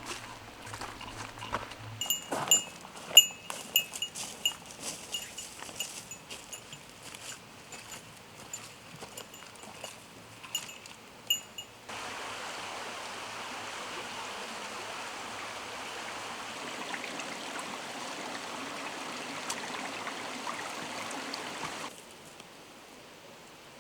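Many light metallic clinks and taps, each with a short bright ring, for about ten seconds; the loudest comes a few seconds in. Then a steady rushing of a stream sets in abruptly and runs for about ten seconds before stopping suddenly.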